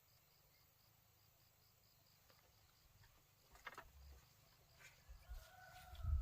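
Faint, evenly repeating insect chirps over near silence, two sharp knocks in the middle, then a long, held animal call that starts about five seconds in and runs to the end, with low thumps under it.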